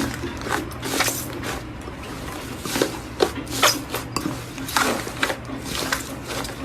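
Slime being squeezed and pressed by hand, giving irregular small pops and crackles several times a second.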